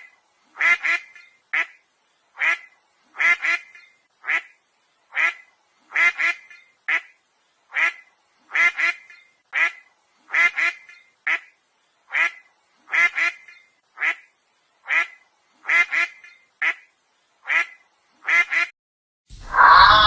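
A duck quacking over and over, short calls about one a second, some in quick pairs. Music starts right at the end.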